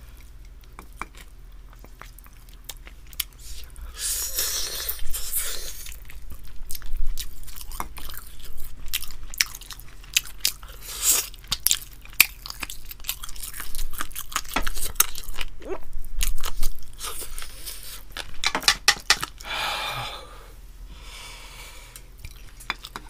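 A person chewing and biting into spicy grilled chicken wings close to a microphone, with many short crunchy clicks scattered through the chewing.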